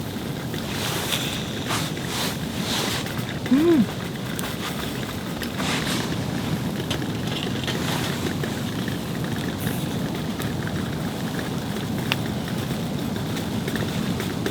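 Steady rushing noise of snowstorm wind, with scattered small pops and crackles. A short tone rises and falls once, just under four seconds in.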